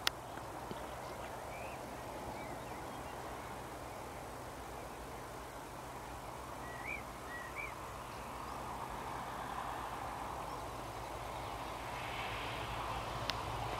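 Quiet outdoor background with a few short bird chirps and one sharp click at the very start. The rushing noise of an approaching train grows louder over the last few seconds.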